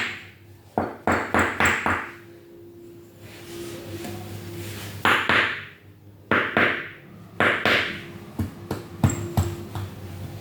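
Toy kit pieces knocking and clacking against each other as they are handled and forced together, about a dozen sharp knocks in uneven clusters. A faint steady hum runs underneath.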